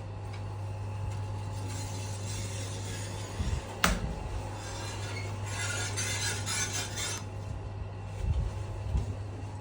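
Hitachi elevator door making an abnormal noise over a steady low hum: a sharp clack about four seconds in, then a couple of seconds of scraping rub, and dull thumps near the end.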